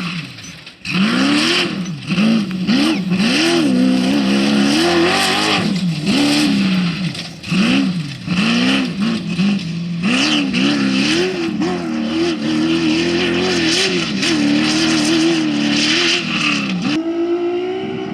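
Off-road race vehicle's engine revving hard, its pitch rising and falling every second or so as the throttle is worked on and off. Near the end it holds a steadier high note.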